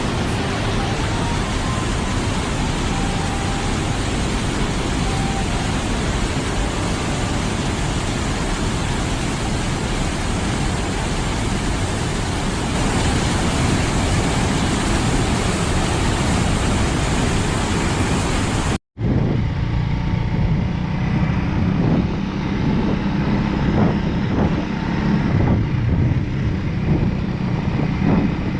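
Wind rushing over the microphone of a moving motorcycle. After a sudden cut about 19 seconds in, the wind is quieter and a steady engine drone comes through.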